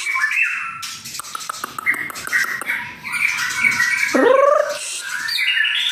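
White-rumped shama singing a fast, varied run of whistled phrases mixed with clicks, with a rising call about four seconds in.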